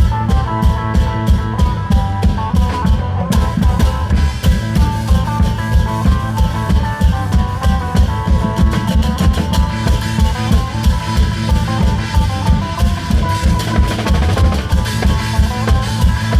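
Thai klong yao long-drum band playing: a steady, driving drum beat of about two to three strong hits a second under a melody line, continuous and loud.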